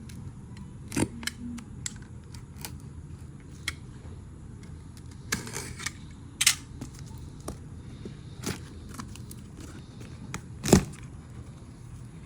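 Handling noises: scattered clicks and knocks with a brief rustle about five and a half seconds in and a louder knock near the end, over a steady low hum. No engine running.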